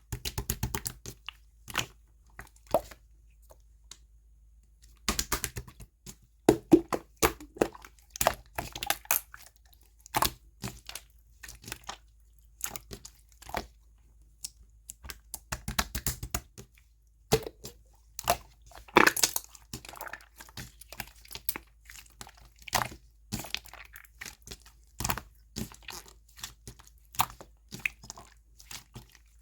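Hands squeezing, poking and stretching slime, making irregular sticky clicks and crackling pops as air pockets burst, in uneven clusters with short pauses between.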